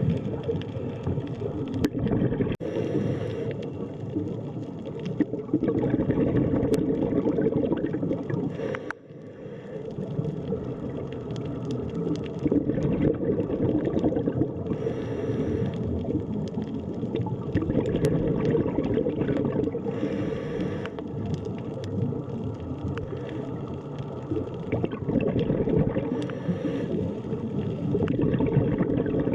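Underwater ambience: a steady, muffled rush and gurgle of water, with brighter rushing swells every few seconds and a brief drop in level about nine seconds in.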